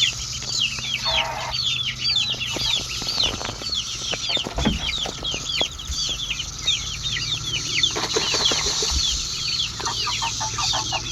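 A flock of chickens calling excitedly, many short high peeping calls overlapping several times a second, over the steady drone of a cicada chorus. A few dull thumps come about halfway through.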